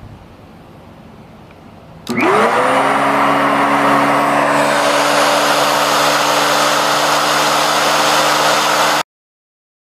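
Kenmore 81214 canister vacuum cleaner switched on about two seconds in. Its motor spins up with a quick rising whine, then runs steadily with a strong airflow hiss. The sound cuts off suddenly near the end.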